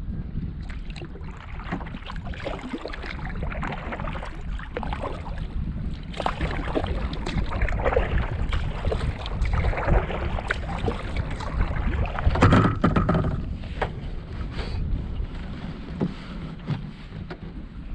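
Wind rumbling on the microphone over water splashing and lapping around a small canoe being paddled, with a louder bump about twelve seconds in.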